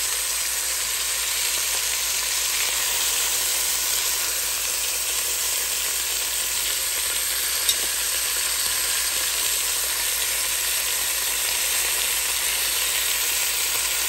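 Chicken legs and chopped bacon frying in hot olive oil and butter: a steady sizzle, with a single sharp click about eight seconds in.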